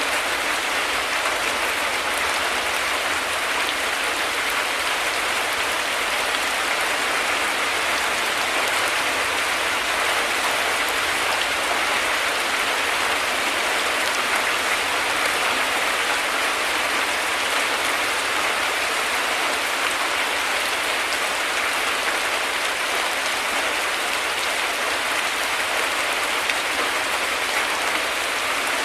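Heavy rain falling steadily: a dense, even hiss of drops, with no thunder heard.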